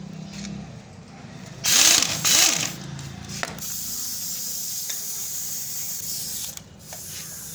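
Pressurised spray hissing during engine work: two short loud blasts about two seconds in, then a steady hiss for about three seconds that stops near the end.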